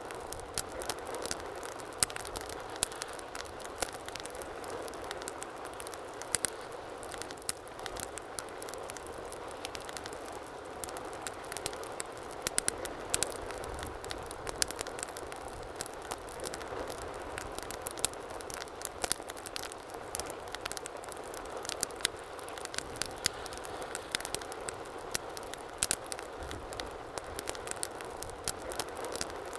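Wood fire burning in a fireplace, with a steady soft hiss and frequent sharp, irregular crackles and pops.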